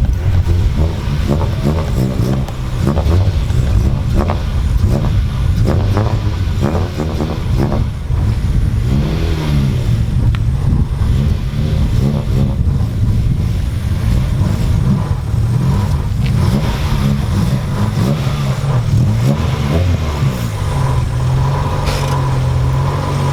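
1998 Acura Integra's four-cylinder engine revving up and down with a manual gearbox, its pitch rising and falling several times, as the driver struggles to find first gear and pull away; near the end the note holds steady.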